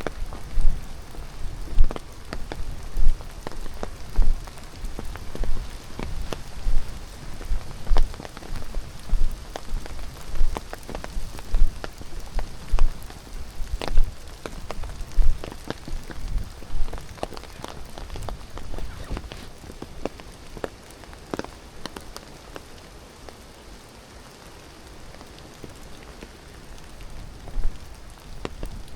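Footsteps of a person walking a forest trail, about one step a second, each a soft thud with a crunch from the ground underfoot. The steps fade and grow sparse about two-thirds of the way through, then pick up again near the end.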